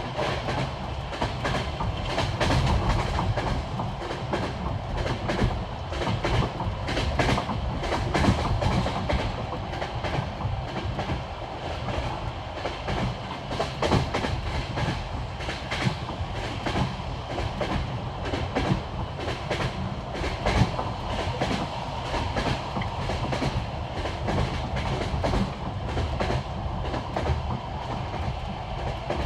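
Passenger train's wheels clattering over the rail joints of jointed (non-welded) track: a steady running rumble with repeated clickety-clack knocks as each bogie crosses a joint.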